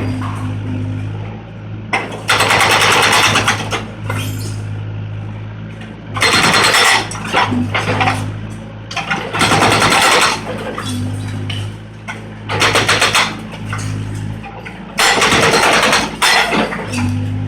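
Volvo 55 mini excavator's diesel engine running steadily, broken by about seven loud bursts of hammering and crashing, each about a second long, as concrete is broken up.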